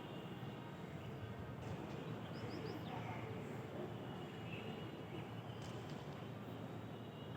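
Morning outdoor ambience: steady low background noise with a few faint, brief bird chirps scattered through it.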